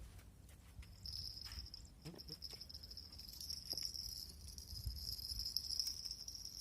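A steady high-pitched insect trill that starts about a second in and carries on, over a low wind rumble on the microphone.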